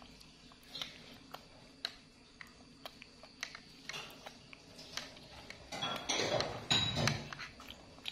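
Plastic spoon tapping and scraping in a plastic yogurt cup as a monkey eats from it: a scatter of light clicks, with a louder, longer noise for about a second around six seconds in.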